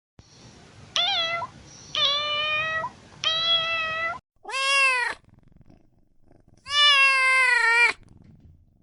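Kitten meowing five times in high, thin calls, the last one the longest and trailing down in pitch at its end.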